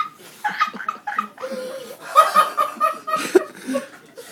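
A woman's uncontrollable, breathless laughter coming out as rapid high-pitched squeaks, thick around two to three seconds in, with others laughing along.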